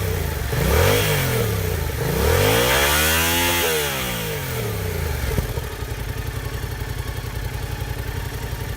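Yamaha MT-07's parallel-twin engine through an aftermarket IXRace Z7 exhaust: a short blip of the throttle, then a longer rev that rises and falls, then it settles into a steady, pulsing idle.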